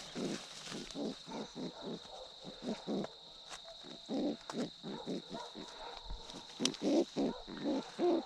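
An animal calling over and over in short, low hoot-like notes, about two or three a second.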